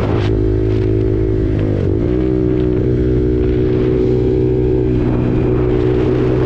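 KTM RC 390's single-cylinder engine running through an SC Project exhaust under way, at a steady pitch. The revs dip briefly and pick back up about two seconds in. Wind noise on the microphone thickens again near the end.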